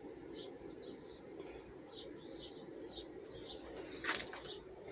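Faint chirping of small birds, short calls repeating two or three times a second, over a low steady hum, with a brief rustle about four seconds in.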